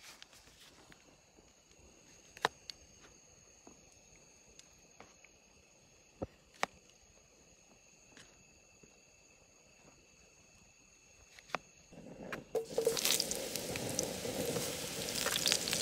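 A few light clicks and knocks, then about twelve seconds in loud frying sizzle starts suddenly as potatoes go into a hot pan, and it keeps going.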